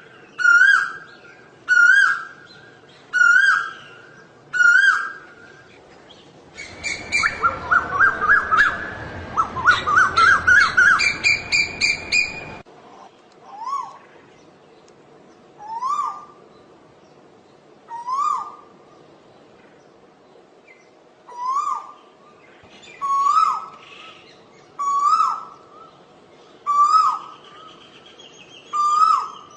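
Asian koel calling: a repeated rising whistled note, about one per second at first. Midway comes a faster run of rising notes over louder background noise, which stops abruptly. The single rising calls then resume about every two seconds.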